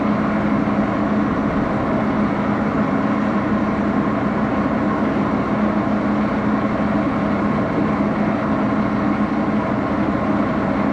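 Axelson engine lathe running steadily at speed, its spindle drive giving an even, low hum with a fainter higher tone above it.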